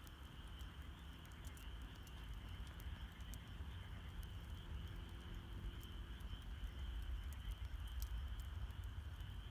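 Wood campfire crackling, with sharp pops scattered irregularly over a low steady noise from the burning. Under it runs a steady high trill of night insects.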